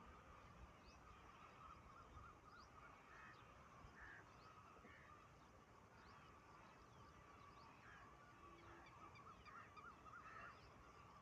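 Faint, scattered bird calls and short high chirps over a steady faint hum.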